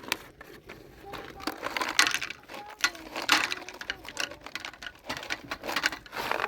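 A run of small irregular clicks and clatters from objects being handled, with a child's voice briefly and faintly now and then.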